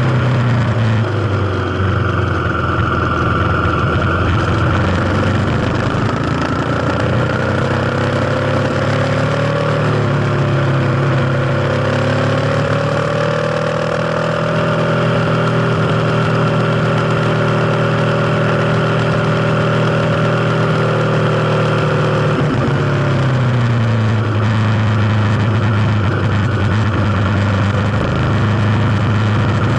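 Kawasaki KLX250's single-cylinder four-stroke engine running on the move: its pitch climbs over several seconds early on, holds steady, then drops as it slows about three quarters of the way through and settles at a lower, steady pitch.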